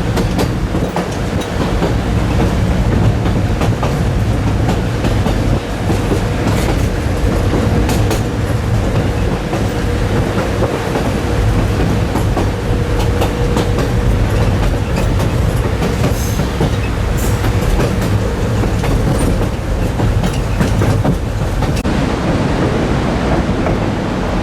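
White Pass and Yukon narrow-gauge passenger train running at speed: a steady rumble of wheels on rail with scattered clicks, and a faint steady whine through most of it that fades near the end.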